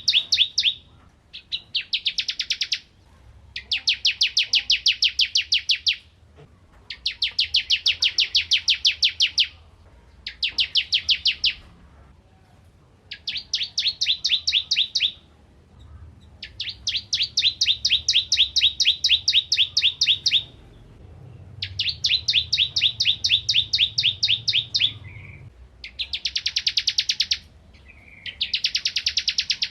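Ciblek kristal, a prinia, singing in a series of fast, high trills: runs of rapidly repeated notes, each one to four seconds long, with short pauses between them.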